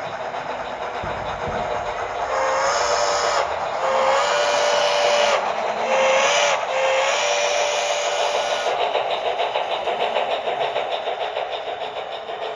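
Steam whistle from an HO scale model steam locomotive's sound decoder, blown in four blasts (long, long, short, long), the grade-crossing signal, over the locomotives' steady running sound. After the whistle, an even rhythmic chuffing comes through.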